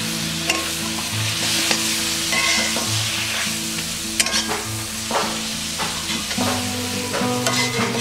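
Squid pieces sizzling in oil and masala in an iron kadai, stirred with a metal spatula that scrapes and clinks against the pan several times.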